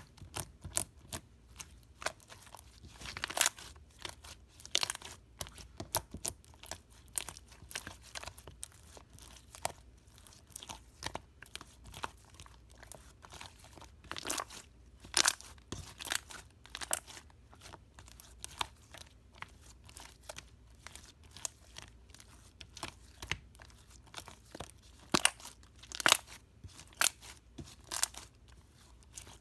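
Slime being squeezed and stretched by hand, giving a fast, irregular run of crackling, popping clicks, with louder clusters of pops now and then.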